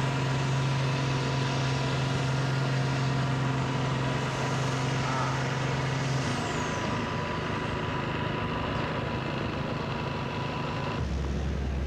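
Competition pulling tractor's engine running hard at steady revs. About eleven seconds in the sound changes abruptly and a deep, low hum takes over.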